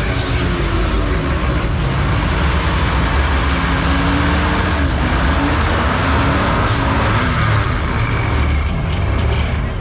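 A car engine held at high revs with a loud, steady roar, its pitch wavering up and down, as a car does a burnout.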